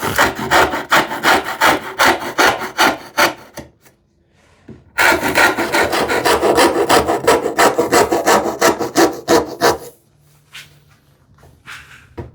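Hand saw making stop cuts in wood, in two runs of quick, even strokes with a short pause between them. A few light taps follow near the end.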